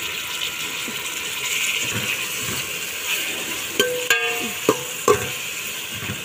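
Onions and tomatoes sizzling in oil in an aluminium pot while a perforated metal spoon stirs and scrapes through them. A few sharp clinks of the spoon against the pot come near the end, one of them briefly ringing.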